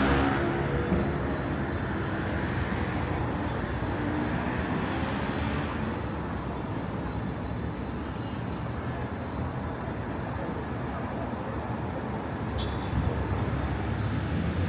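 Street traffic: vehicles passing, with tyre and engine noise swelling and fading.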